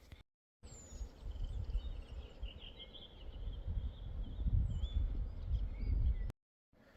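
Birds chirping and calling, with short falling whistles and trills, over a gusty low rumble of wind on the microphone that grows stronger toward the end.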